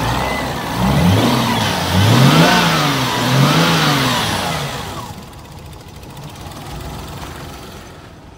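Toyota Mark II GX100's 1G-FE VVT-i 2.0-litre straight-six revved three times, the pitch rising and falling with each blip, then dropping back to a steady idle about five seconds in.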